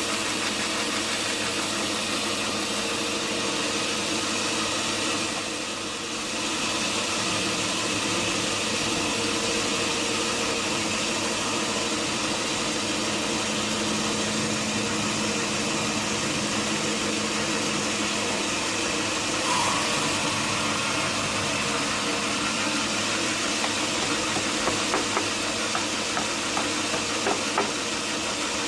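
Sawmill machinery running steadily: an engine drone with a hiss, dipping briefly about six seconds in, with a few light knocks near the end.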